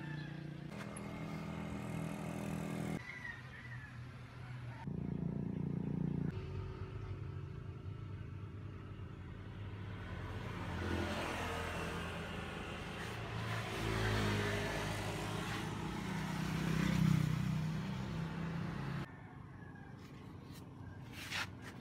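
A motor vehicle engine running with a steady low hum, its pitch wavering in the middle stretch. The sound changes abruptly several times, as at joins between short pieces.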